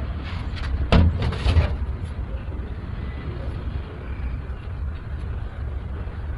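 Engine running with a steady low rumble, with a few sharp knocks about a second in.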